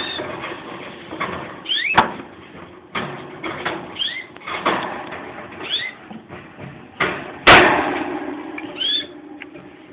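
Pet bird giving short rising chirps every second or so, with a sharp click about two seconds in and a loud clatter about seven and a half seconds in.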